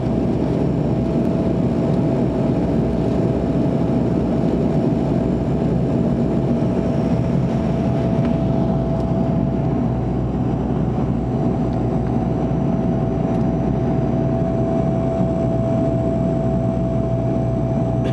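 Steady drone of a DHC-8-300's twin PW123 turboprop engines and propellers heard inside the passenger cabin, a constant mid-pitched tone over a dense low rumble.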